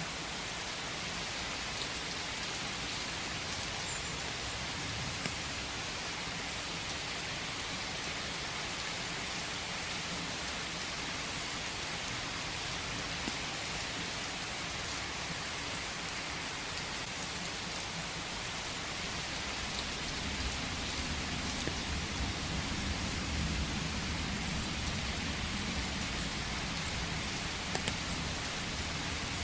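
Steady rain falling in a forest, an even hiss with scattered drops ticking. A low rumble swells underneath in the last third.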